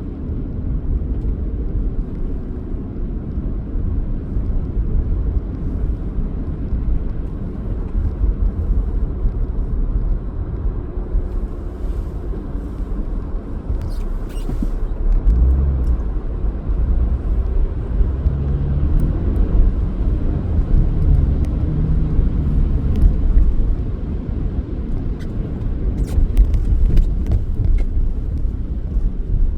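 Steady low rumble of a car driving, engine and tyre noise on the road, a little louder in the middle, with a few faint clicks now and then.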